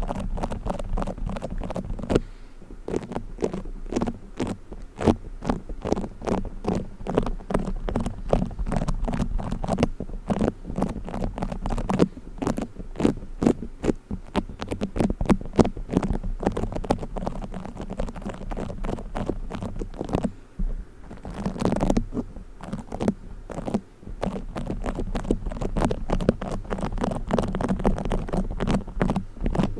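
Play foam (beaded modelling foam) being squeezed and kneaded close to the microphone, making a dense, continuous stream of small crackles and squishes.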